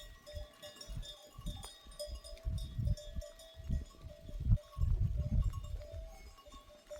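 Bells on a goat herd ringing on and off, with irregular low rumbling, loudest a little past the middle.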